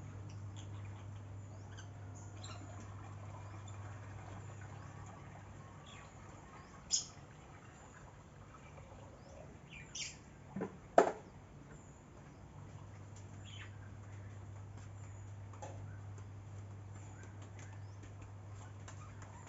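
Birds chirping in short scattered calls over a steady low hum, with a few louder sharp calls near the middle.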